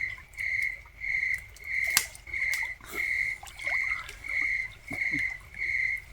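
Crickets chirping steadily, about two chirps a second, with water sloshing and splashing in a bathtub hot tub as a person dunks in it; a sharp knock about two seconds in.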